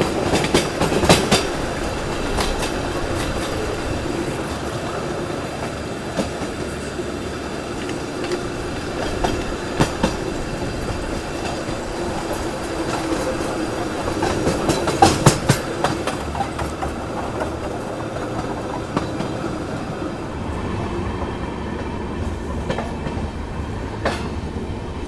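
Passenger train with LHB coaches running on the rails: a steady rumble with the clickety-clack of wheels over rail joints and points. Clusters of louder clacks come about a second in and again around fifteen seconds.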